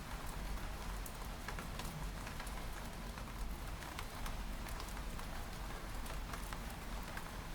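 Steady rain with many small raindrops tapping against window glass, irregular, over a continuous low hiss.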